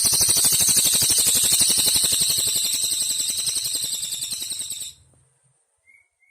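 Cililin singing one long, very fast, high buzzing trill of about five seconds, fading slightly and cutting off abruptly; a birdsong training recording.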